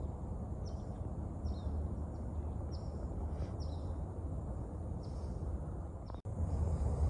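A small bird chirping repeatedly in short, high, falling notes, over a steady low rumble of wind on the microphone.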